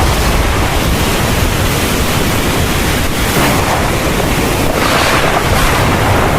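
Heavy rain falling steadily, with a deep continuous rumble underneath and gusts that swell and ease every second or two.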